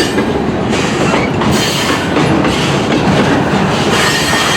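A Canadian National mixed freight train rolling past, with steady, loud noise of its wheels running on the rails.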